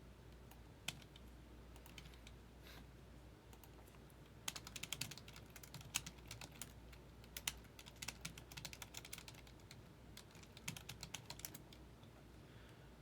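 Faint typing on a computer keyboard: irregular runs of key clicks from about four and a half seconds in to about eleven and a half, over a low steady hum.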